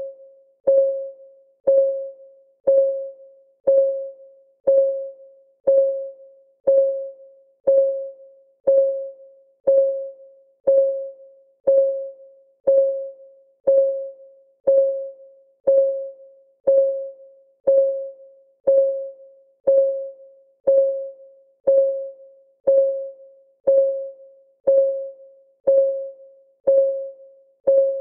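Clock ticking sound effect of a countdown timer: one tick a second at a steady even pace, each a short pitched tick that rings briefly and dies away.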